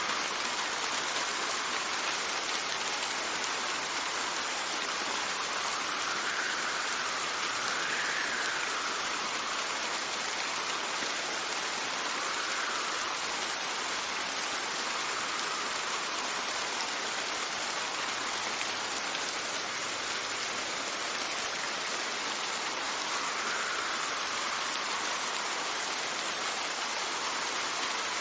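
Steady rain falling, a continuous even hiss, with wind swelling and fading in soft gusts a few times.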